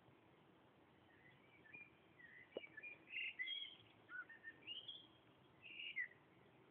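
Faint birdsong: a songbird chirping in a run of short, quick phrases from about a second in until near the end, with one sharp click about two and a half seconds in.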